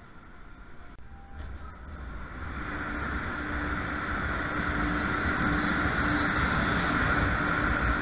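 MBTA Green Line light-rail train pulling into the platform and rolling past: rumble of steel wheels on rail with a steady motor hum. It grows louder from about a second and a half in and stays loud as the cars pass close by.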